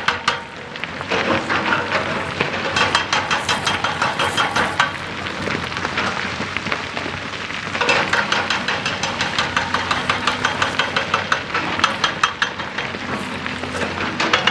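Excavator-mounted hydraulic rock breaker hammering rock in rapid, evenly spaced blows, over the running excavator engine. The hammering pauses briefly right at the start and eases for a couple of seconds midway before picking up again.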